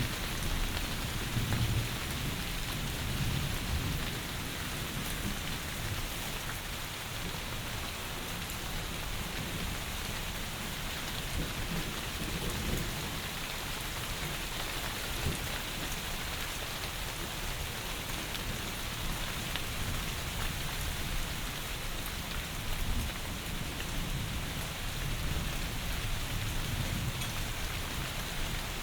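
Heavy rain falling steadily, a dense even hiss, with a low rumble underneath that swells about a second in and again near the end.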